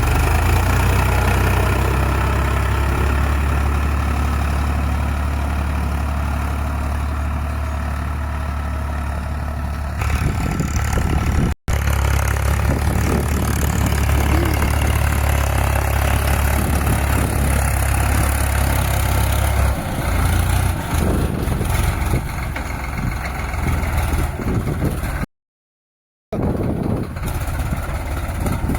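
Diesel tractor engine running steadily, with a strong low drone. The sound breaks off briefly twice: once for an instant about a third of the way through, and once for about a second near the end.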